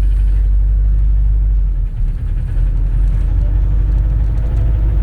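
A 2004 compressed-natural-gas city bus running, heard from inside the cabin: a steady low engine and road rumble with a faint drone above it.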